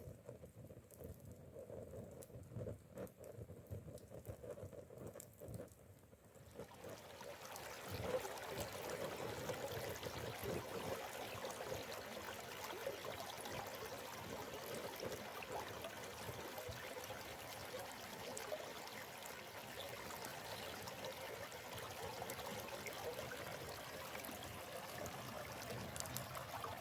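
Running stream water. For the first six seconds it is quieter with small scattered ticks, then it comes up much louder about six seconds in and flows on steadily.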